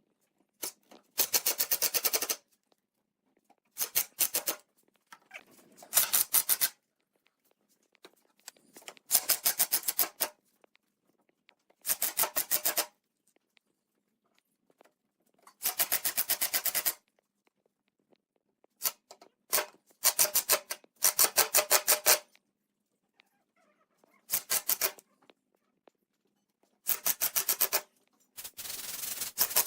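Repeated rasping strokes of a hand tool working wood, such as sawing or filing. Each stroke lasts about a second and is made of rapid fine ticks, with short pauses between strokes.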